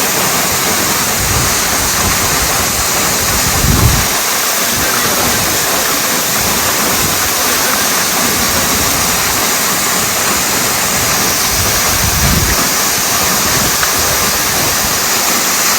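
Waterfall rushing steadily into its pool, a continuous even roar of water, broken by a few brief low thuds, the strongest about four seconds in.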